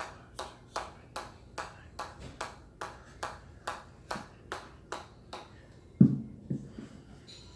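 A steady run of sharp, ringing taps, about two and a half a second, as a hard ball is kept going. About six seconds in, the run breaks: a heavier thud and two smaller bounces as it drops.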